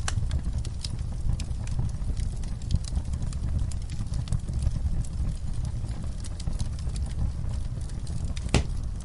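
Campfire burning: a steady low rumble of flames with frequent, irregular crackles and pops, one louder pop about eight and a half seconds in.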